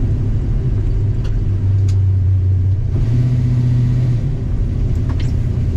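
Chrysler Valiant's 408 stroker small-block V8 running at low revs. The engine note rises briefly a little past halfway and then settles back.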